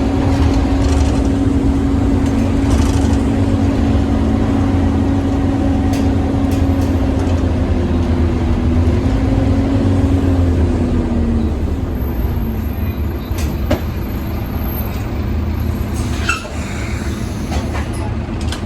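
Scania OmniCity double-decker bus running with a low engine rumble and a steady whine on top, the vacuum-cleaner-like whine that makes this bus a 'hoover', which dies away a little past halfway. A few sharp clicks and knocks come through, with a short sweeping tone near the end.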